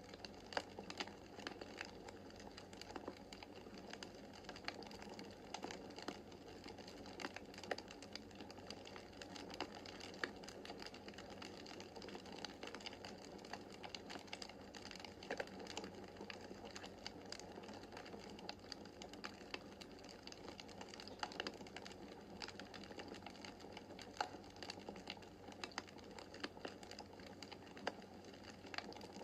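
Wood fire crackling in a fireplace: a steady low rush of flame with frequent irregular crackles and occasional sharper pops.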